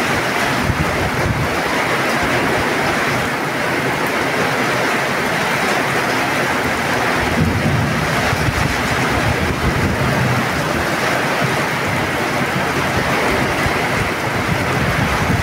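Heavy rain pouring steadily. Low rumbles swell beneath it about a second in and again around eight to ten seconds in.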